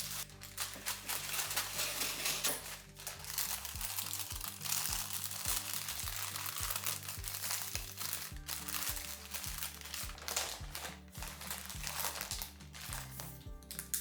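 Crinkling and rustling of wrapping, such as cling film or a packet, being handled while folded onigiri are made. Background music with a steady bass line plays underneath.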